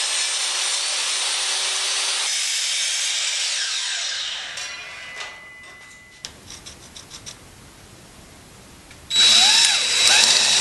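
Power saw cutting wood, then its motor winding down about four seconds in; a few light clicks and knocks follow. Then, about nine seconds in, a power drill starts up with a high whine.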